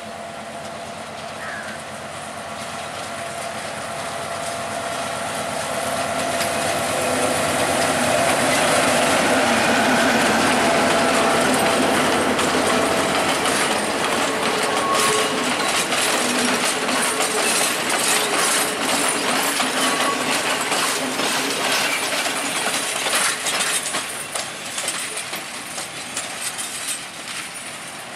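Class M6 diesel locomotive hauling a mixed train past, its engine hum growing louder to a peak about ten seconds in. The coaches then roll by with a rapid clicking of wheels over the rail joints, which fades near the end.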